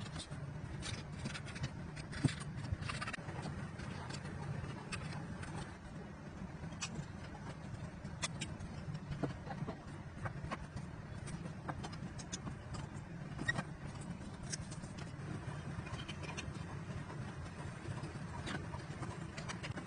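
Irregular light clicks and taps from small parts being handled during work on a miniature toy car, over a steady low hum.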